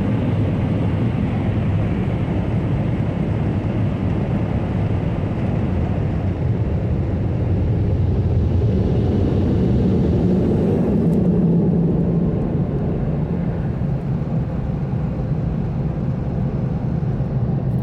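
Automatic car wash blower dryers running: a steady, loud rush of air over the car, swelling louder about eight seconds in and easing again a few seconds later.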